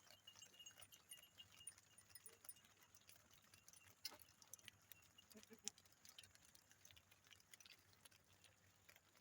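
Near silence, with faint scattered clicks and ticks and a brief faint sound about five and a half seconds in.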